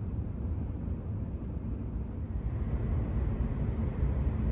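Steady low rumble inside the cabin of a Shinkansen bullet train while it is running.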